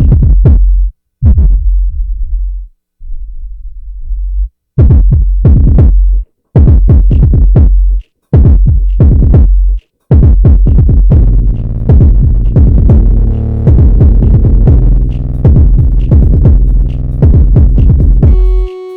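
Electronic music made on a Korg: a heavy drum-machine bass beat that cuts in and out in short stop-start bursts for about the first ten seconds, then runs on without breaks with synthesizer layers added.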